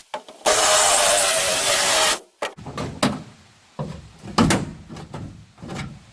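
A power drill with a spot weld bit runs for under two seconds, cutting out a spot weld in a steel seat pan. A string of sharp metal knocks and clanks follows as the pan is worked free.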